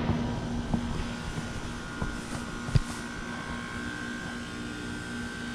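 2019 Goodman GSZ14 heat pump outdoor unit running with a steady hum and a higher steady whine, its outdoor coil frozen over so that barely any air moves through it. There are a few faint knocks, with a sharper one about three seconds in. The owner takes the unit's failure to defrost as a sign that it needs a new defrost board.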